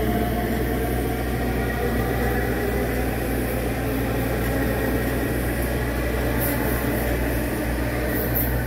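Long Island Rail Road M9 electric multiple-unit train pulling away along the platform: a steady low hum and rolling wheel-on-rail noise, with a faint whine that rises slightly in pitch as it picks up speed.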